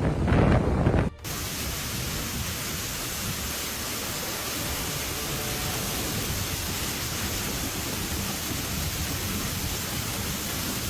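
Wind buffeting the microphone for about a second, then an abrupt cut to a steady, even hiss.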